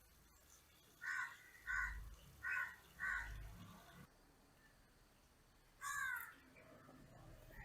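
A crow cawing: four short, harsh caws in quick succession, then a single caw about six seconds in.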